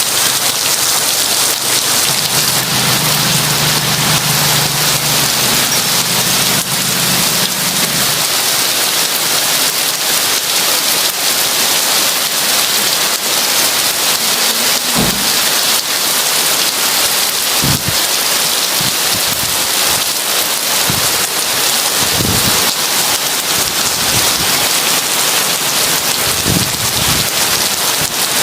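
Heavy rain falling steadily, a dense even hiss. A low rumble of thunder runs through the first several seconds, and a few short low thuds come later on.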